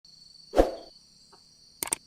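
A steady, high-pitched insect drone from the forest, with a loud thump about half a second in and a quick run of sharp clicks near the end.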